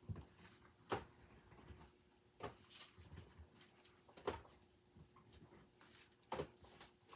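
A few light knocks and clicks, about four spaced a second or two apart, as boxed collectible figures are handled and set down, with a brief rustle of packaging.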